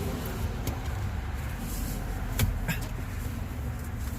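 Scuffing and a few sharp clicks, the loudest about two and a half seconds in, as a cover is forced onto a truck's steering wheel. A steady low rumble runs underneath.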